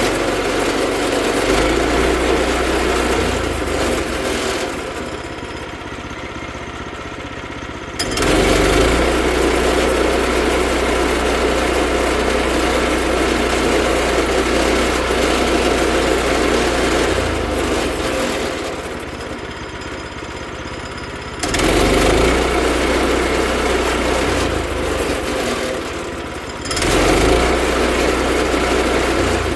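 Small gasoline engine of a portable bandsaw sawmill running, its sound swelling to a louder, busier note and dropping back several times, as if the throttle is opened and let back toward idle.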